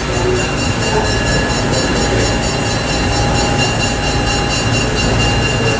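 Passenger train running, heard from aboard: a steady rumble of the cars on the rails with several steady high tones over it.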